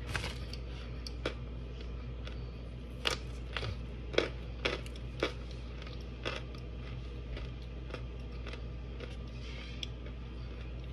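Hard, chalky white chunks being bitten and chewed: a string of crisp crunches at uneven intervals, most of them in the first six seconds and only a few later, over a steady low hum.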